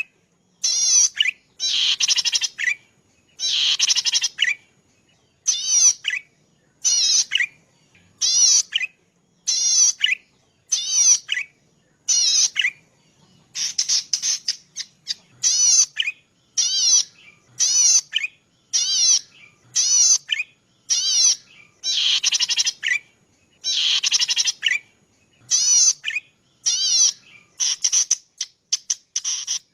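Cici padi (prenjak padi), a small grass warbler, calling over and over in short buzzy, rapidly quavering high notes, about one call a second. A few calls near the start and middle run longer and fuller.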